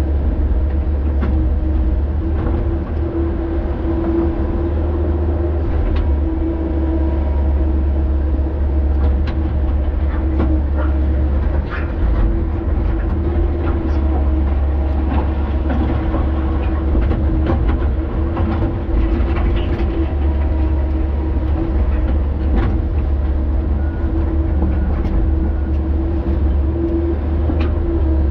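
Excavator's diesel engine running steadily at working speed, a deep drone with a constant hum above it, with scattered knocks and clanks through it.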